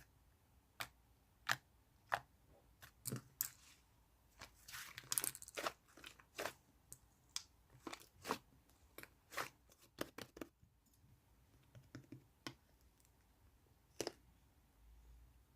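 Fluffy slime being squeezed and stretched by hand, giving irregular sharp clicks and pops, with a denser crackling run about five seconds in.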